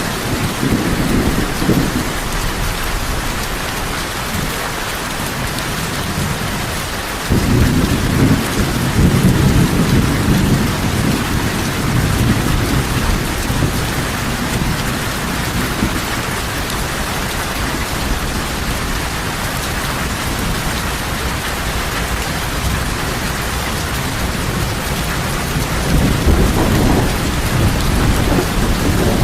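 Heavy rain falling steadily, with thunder rumbling low under it. One roll comes in suddenly about a quarter of the way in and lasts several seconds, and another swells near the end.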